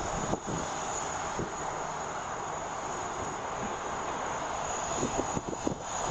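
Emirates Airbus A380's jet engines running steadily: a rushing roar with a constant high whine over it. Wind buffets the microphone just after the start and again near the end.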